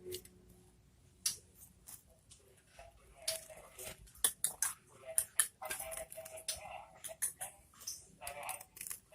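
Common iora bathing in its cage: irregular sharp splashes and taps, sparse at first and several a second from about three seconds in.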